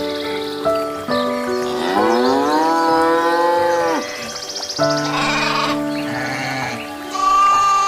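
Animal calls over background music: one long call that rises in pitch and then holds, followed by two shorter quavering calls.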